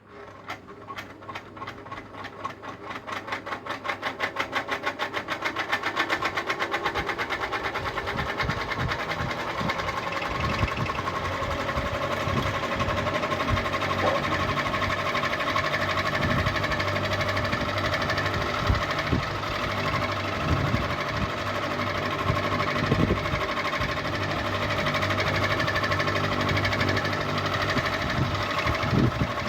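Ceiling fan starting up: a rhythmic pulsing whir that speeds up over the first several seconds, then runs steadily at speed.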